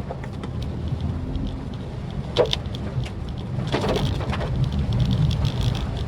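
Maruti Suzuki Swift Dzire driving in the rain: a steady low engine and road rumble with scattered raindrop ticks. A sharp tick comes about two and a half seconds in and a brief swish about four seconds in.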